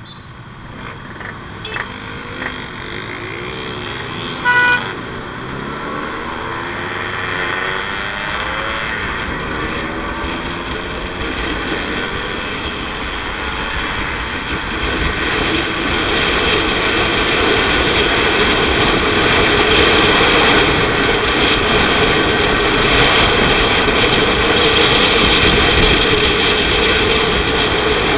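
Motorcycle engine pulling away and accelerating, its pitch rising in repeated glides as it goes up through the gears, with wind and road noise growing into a loud, steady rush by the middle. A short vehicle horn toot sounds about four and a half seconds in.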